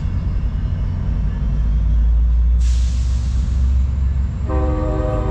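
Diesel train locomotive running with a steady low rumble, a burst of air hissing about halfway through, then a multi-note train horn sounding a chord near the end.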